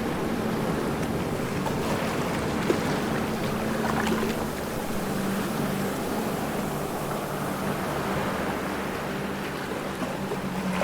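Ocean waves washing steadily, with a faint low hum underneath.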